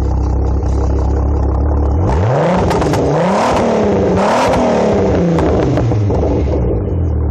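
Turbocharged 12-valve VR6 engine with a full 3-inch exhaust, idling, then revved twice in quick succession about two seconds in, with the pitch climbing, dipping briefly and peaking again before it falls back to idle near the end.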